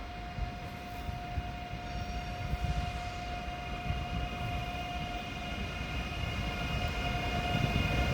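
Deutsche Bahn ICE 3 (class 403) electric multiple unit moving slowly into the station: a steady electric whine of several high tones over a low rumble, growing louder as it approaches.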